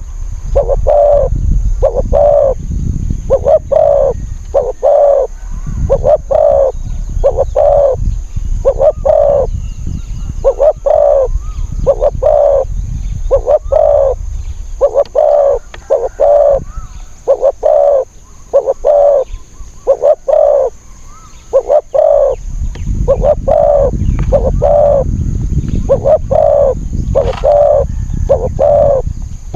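Spotted dove cooing over and over in a fast, unbroken string of short coos, about one and a half to two a second, with a low rumble underneath that swells at times.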